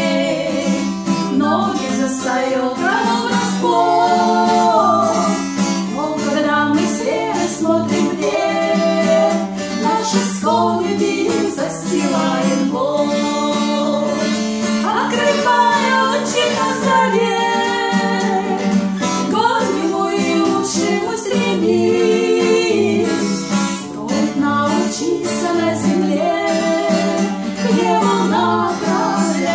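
A Christian song sung in Russian, with a voice carrying the melody over strummed acoustic guitar.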